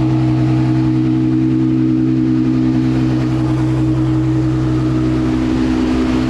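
Ferrari F12's V12 engine idling steadily at a constant pitch, left running to cool down before it is shut off.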